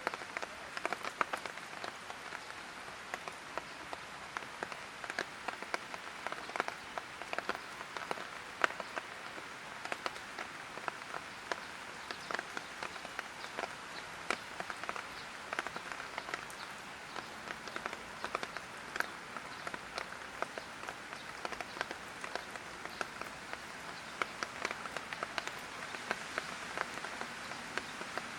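Light rain falling: a steady hiss with many sharp individual drop hits. It starts abruptly out of silence.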